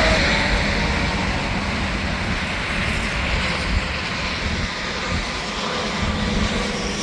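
Heavy highway traffic passing, mostly semi-trucks, with a steady rush of tyre and engine noise. A horn's held note cuts off right at the start.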